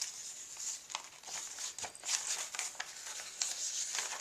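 Paper pages of a handmade junk journal being turned and handled, with irregular light rustles and crinkles.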